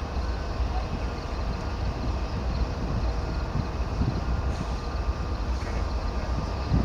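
Diesel-electric locomotives of a six-engine light power move running past, with a steady low engine rumble.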